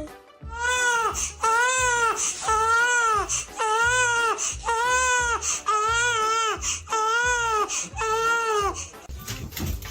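Infant crying in a steady string of short wailing cries, about one a second, each rising and falling in pitch; the crying stops shortly before the end.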